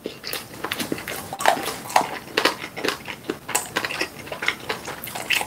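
Close-miked chewing of food: a steady run of wet smacking and mouth clicks from a man eating with chopsticks.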